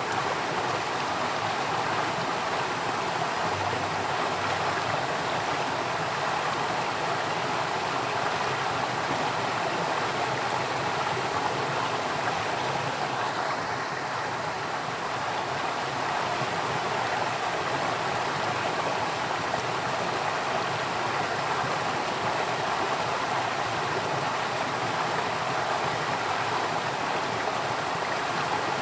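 Flowing water from a stream, a steady even rushing with no pauses or changes.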